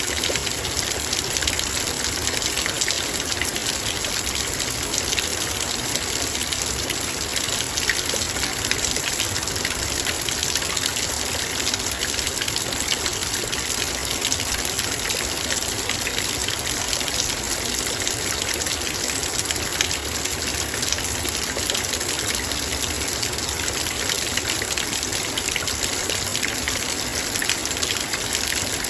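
Heavy rain falling on a metal bowl: a steady, dense hiss of rain with countless fine raindrop ticks on the metal.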